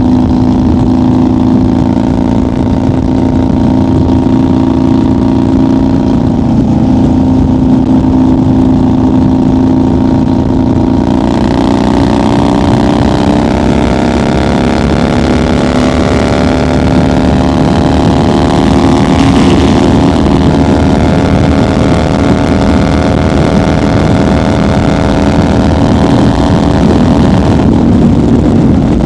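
1990 Harley-Davidson FXR's Evolution V-twin running at highway speed. About a third of the way in, the engine note starts climbing slowly and wind rush grows with it. Both ease back just before the end.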